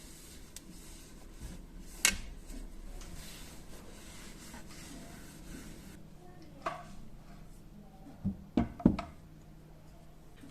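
Kitchen utensils and containers being handled and set down in a drawer: a sharp click about two seconds in, a few seconds of rubbing and rustling, then a quick cluster of knocks near the end, the last of them the loudest.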